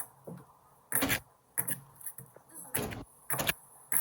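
Four hard knocks or cracks, short and loud, coming irregularly over a few seconds, like hard plastic being struck or smashed.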